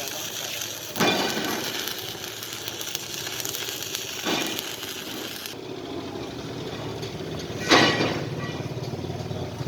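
Steady crackling hiss of arc welding on a differential axle tube, broken by three sharp metal knocks. The hiss stops about halfway through, and after a loud knock near the end a low, evenly pulsing engine sound starts.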